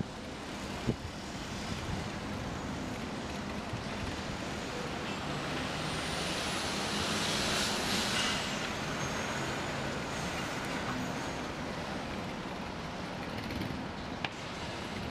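Steady road-traffic noise, swelling as a vehicle passes about halfway through, with a thin high whine that rises and then drops away. A short click sounds near the start and again near the end.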